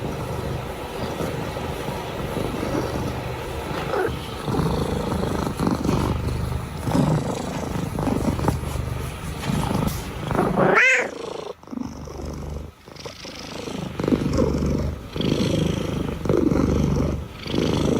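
Domestic cat making a low rumbling sound that swells and fades with each breath, and one loud yowl that rises and falls in pitch about eleven seconds in.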